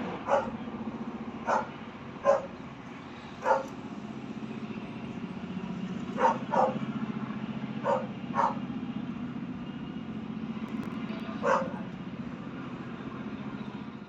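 Short, sharp calls, like a dog barking, about nine times at uneven intervals over a steady low hum.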